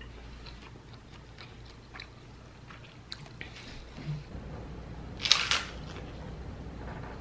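Chewing with small mouth clicks, then a short loud crunch of a crisp fried cracker about five seconds in.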